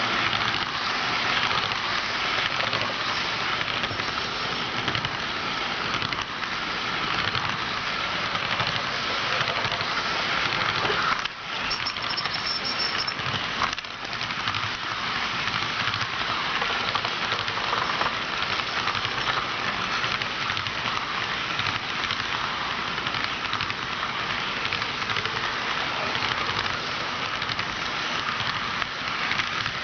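HO scale model train running on its track: a steady rattling clatter of small wheels on the rails and the drive motor, with a short drop in level about eleven seconds in.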